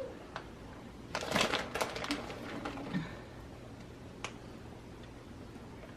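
Kitchen handling noises while food is being prepared: a cluster of scraping and clicking about a second in, a light knock near the middle, and one sharp click later, over a faint steady hum.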